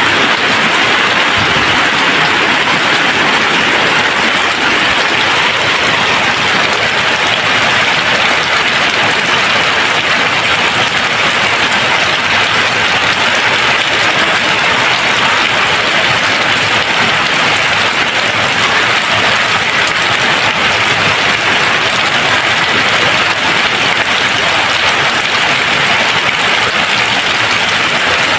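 Steady, even rain falling, a continuous hiss of drops with no thunder.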